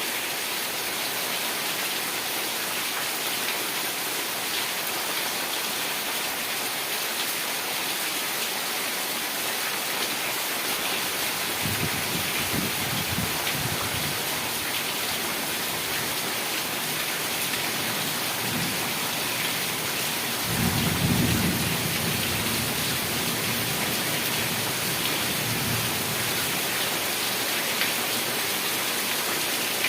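Heavy rain falling steadily, with thunder rumbling low twice: once about twelve seconds in and louder about twenty seconds in, dying away over several seconds.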